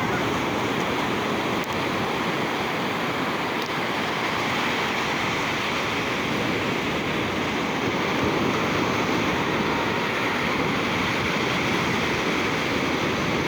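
Ocean surf breaking and washing up the beach, a steady rushing with no single wave standing out.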